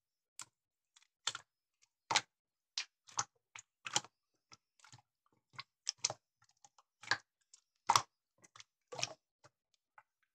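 Slime being squeezed and poked by hand, giving irregular sharp popping clicks, about two a second.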